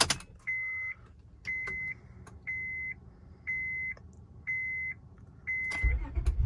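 Honda Accord dashboard warning chime beeping six times, about once a second at one steady pitch, with the ignition switched on; near the end the 3.0-litre V6 engine cranks and fires into a loud start.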